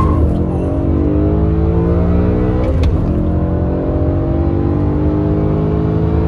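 BMW E90 M3's 4.0-litre V8 heard from inside the cabin under hard acceleration, its note climbing steadily, dropping briefly about three seconds in as it shifts up a gear, then climbing again.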